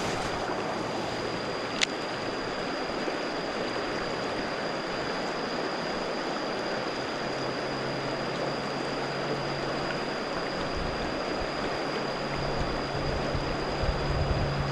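Steady rushing of flowing water, with a thin steady high tone over it and a low hum coming in about halfway through. A single sharp click about two seconds in.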